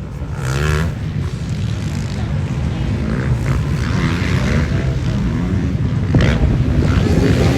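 Motocross bike engine running under throttle, its pitch shifting as it revs, gradually getting louder.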